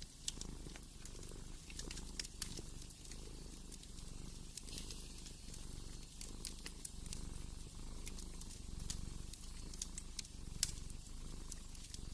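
A cat purring steadily, low and pulsing, over a fireplace crackling with scattered sharp pops. The loudest pop comes near the end.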